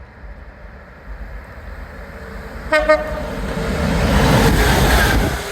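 A train sounds a brief horn toot a little before halfway, then passes close by with a loud rushing noise that builds to its loudest near the end and falls away sharply.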